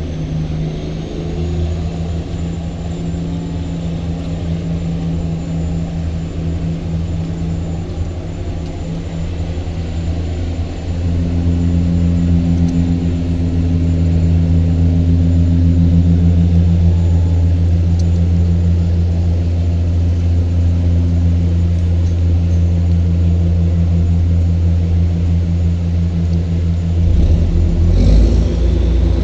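A boat's diesel engine runs steadily with a deep, low hum. It grows louder about eleven seconds in.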